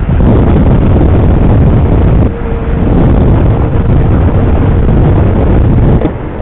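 Motorcycle on the move: loud, steady engine and wind rush on the microphone, with a short dip about two seconds in and the level falling off near the end.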